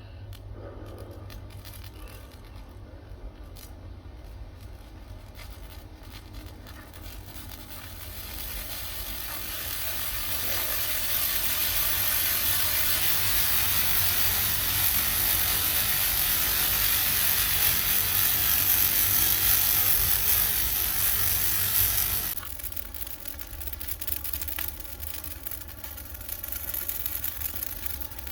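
A loud rushing hiss of burning with fine crackles, building over a few seconds about a third of the way in and holding until it cuts off abruptly; quieter crackling comes before and after it.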